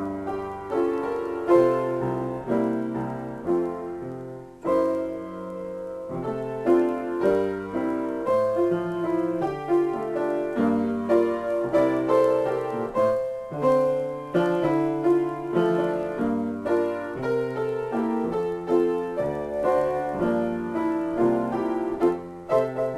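Solo piano playing chords under a melody, with a brief pause about four and a half seconds in.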